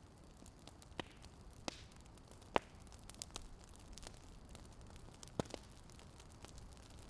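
Wood fire crackling quietly: scattered sharp pops, the loudest about two and a half seconds in and again about five and a half seconds in, over a low steady hiss.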